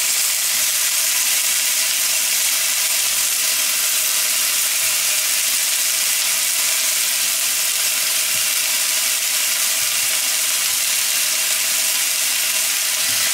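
Chanterelle mushrooms sizzling in hot sunflower oil in a frying pan, a steady, even hiss.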